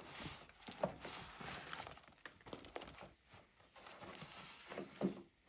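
Handmade junk journals being taken off a shelf and handled: light knocks and rustling of paper and covers, with a sharper knock near the end.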